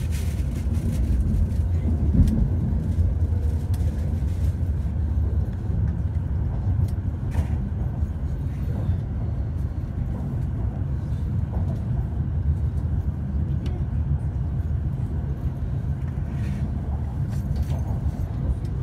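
Hokuriku Shinkansen (E7/W7-series) train running on an elevated viaduct, heard from inside the passenger cabin as a steady low rumble with a few faint clicks.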